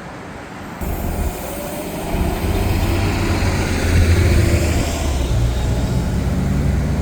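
Jet airliner engines rumbling as an aircraft passes close by. The sound comes in suddenly about a second in, swells to its loudest around four seconds and stays loud.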